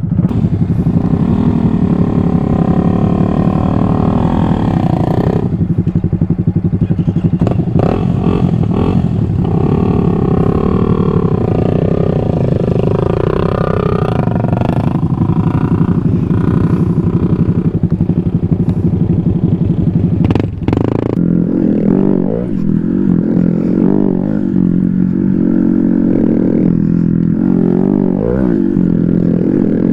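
Motorcycle engine running loud and steady while riding. About two-thirds of the way through it briefly drops off, then comes back with a note that rises and falls.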